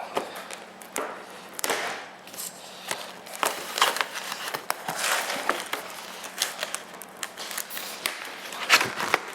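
Cardboard fireworks selection box and its packaging being handled and opened by hand: irregular rustling, scraping and tapping, with a louder knock near the end.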